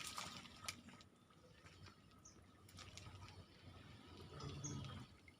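Near silence: faint outdoor ambience with a few short, high chirps and light clicks.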